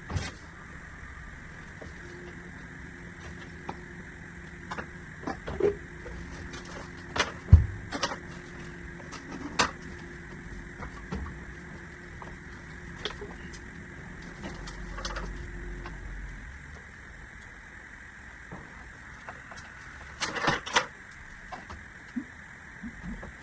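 Scattered clicks and knocks of plastic drainage pipe and fittings being handled and pushed together, with one heavier thud about seven seconds in and a cluster of knocks near the end. A steady low hum runs underneath and stops about two-thirds of the way through.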